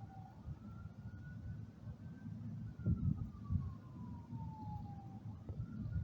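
A distant emergency-vehicle siren wailing. Its single tone rises, falls slowly over a few seconds, then climbs sharply again near the end. Underneath is low rumbling noise with a couple of bumps about halfway through.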